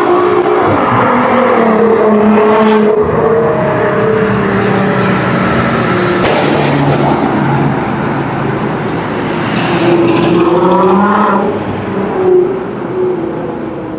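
Nissan R35 GT-R twin-turbo V6 running through a titanium valvetronic catback exhaust with catless downpipes, driven hard. The engine note climbs under throttle and falls away sharply twice, with a short loud blip near the end.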